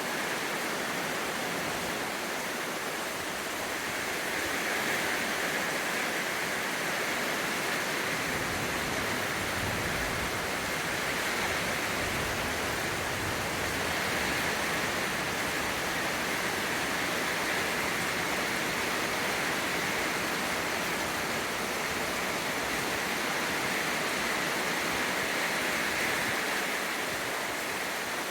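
Steady rain falling, an even hiss that swells and eases slightly.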